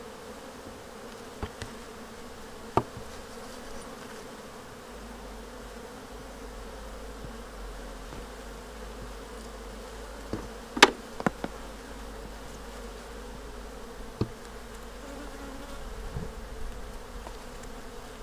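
Honeybees buzzing around an open hive, a steady hum. A few sharp knocks break in, the loudest just past halfway.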